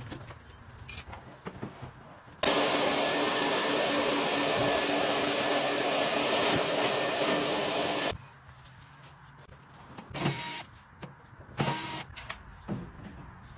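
A vacuum cleaner's motor switches on and runs loud and steady for about six seconds, then cuts off abruptly. Two short bursts of the same kind of sound follow.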